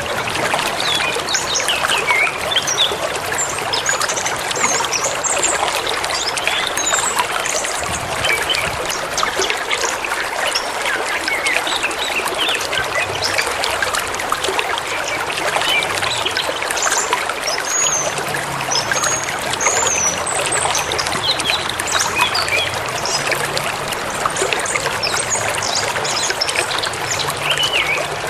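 Forest river or stream babbling steadily, with songbirds chirping and whistling over it.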